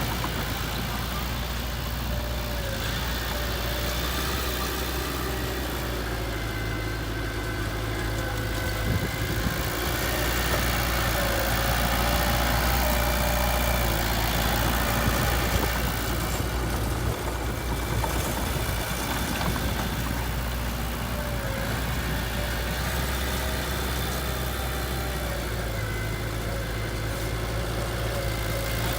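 Heavy machine's diesel engine running steadily at low revs, a little louder in the middle.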